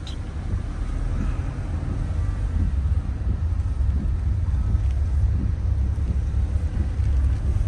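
Steady low rumble of a vehicle on the move, building up over the first second and then holding even.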